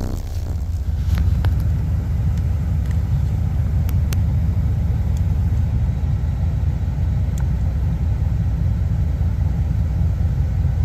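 Car subwoofers playing a sustained deep bass tone around 31 Hz at extreme volume, heard from inside the car as a steady, distorted rumble, with a few faint rattles. This is an SPL test run, reaching about 148.9 dB on the meter.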